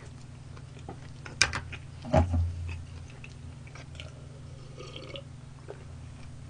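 Mouth noises of chewing fried chicken, with two sharp crunches or clicks a little after one and two seconds in, over a steady low hum.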